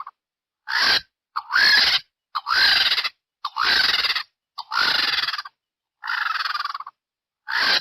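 Vulture calls: a series of about seven harsh, raspy screeches, roughly one a second, with short silences between them.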